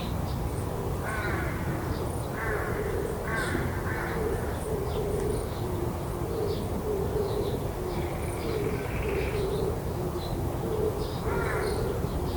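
Crows cawing, about six short harsh caws at irregular intervals, over a steady pulsing low hum, with small birds chirping faintly high above.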